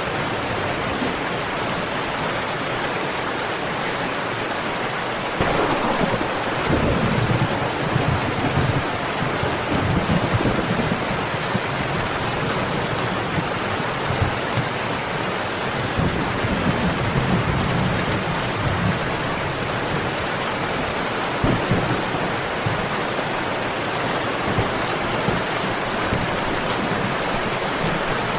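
Steady heavy rain, with a low rumble of thunder that rolls in about five seconds in and fades over the next several seconds. A few sharp pops of a crackling wood fire stand out now and then.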